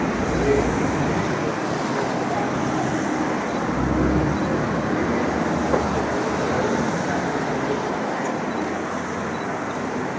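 Steady road-traffic noise, a continuous rumble and hiss of passing vehicles.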